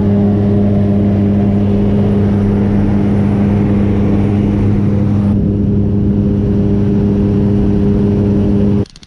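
Small propeller plane's engine droning steadily, heard loud from inside the cabin; it cuts off abruptly near the end.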